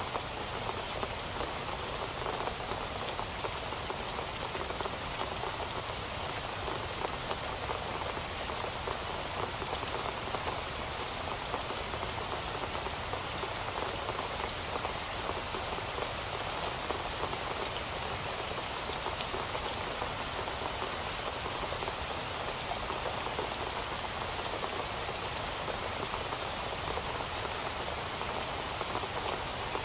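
Steady, continuous rain falling on a surface, a dense even patter of drops with no thunder.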